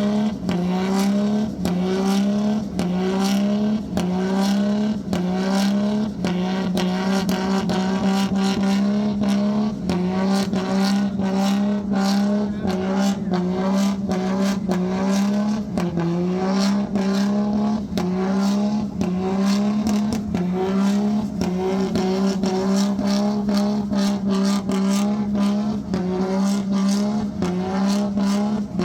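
A vehicle engine held at high revs, its pitch climbing and then holding again and again, with many sharp pops or clicks mixed in.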